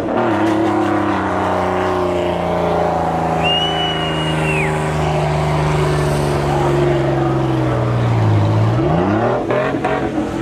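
A truck engine at high revs, its pitch sinking slowly for several seconds as it winds down, then revved up again sharply near the end. A brief high-pitched tone sounds about four seconds in.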